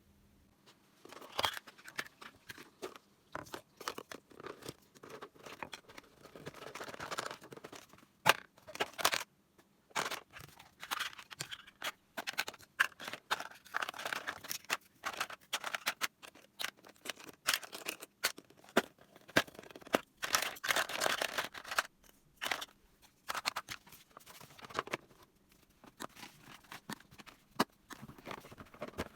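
Hands handling miniature plastic toy kitchen pieces and their wrapping: a busy run of light clicks and taps with stretches of crinkly rustling. It starts about a second in and stops just before the end.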